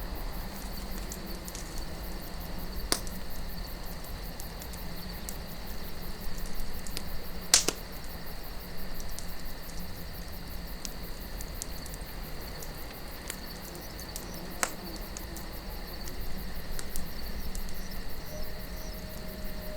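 Campfire burning with soft crackle and a few sharp wood pops, the loudest about seven and a half seconds in, over a steady desert wind and crickets chirping.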